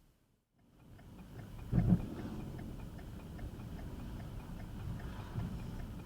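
Low, steady rumble of a car on the move, with a thump about two seconds in and a light, even ticking about four times a second.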